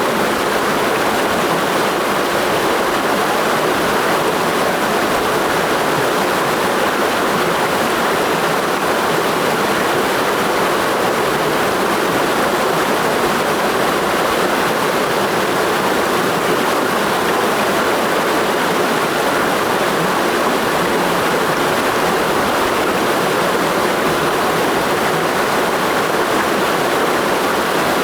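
Mountain stream rushing over rocks, a steady loud even rush of water with most of its energy in the middle range.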